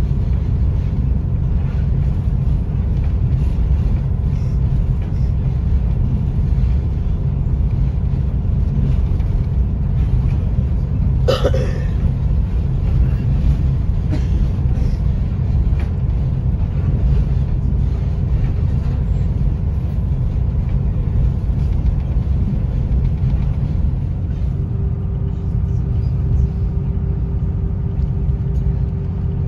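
Steady low rumble of a passenger train coach rolling along the track, heard from inside the car. A brief high squeal cuts in about 11 seconds in, and a steady hum joins near the end.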